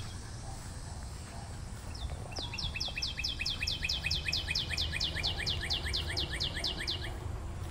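A songbird singing a long, rapid series of repeated downslurred notes, about six a second. The song starts a couple of seconds in and lasts about four and a half seconds, over a low, steady background rumble.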